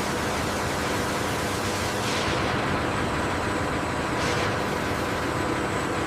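Steady industrial machinery noise in an assembly hall: an even hiss over a low hum, with two brief louder hisses about two and four seconds in.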